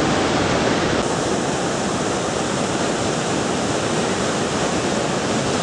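Steady rush of the Iguazu Falls cascades: an even, unbroken noise of heavy falling water.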